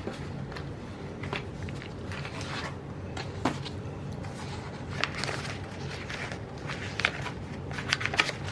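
Light rustling and scattered small clicks of paper and sticker sheets being handled as stickers are peeled and pressed into a planner, more frequent in the second half, over a steady low hum.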